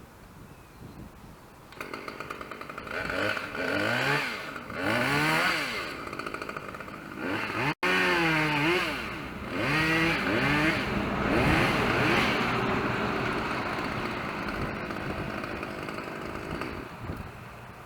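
Chainsaw starting up about two seconds in and revved up and down several times, then held at high speed for several seconds before dropping off near the end.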